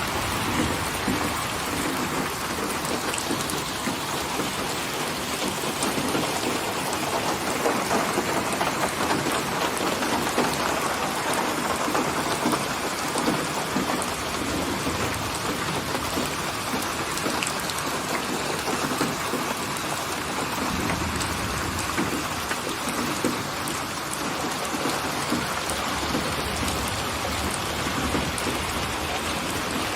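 Steady rain falling, an even hiss of drops, with a low rumble coming in about two-thirds of the way through.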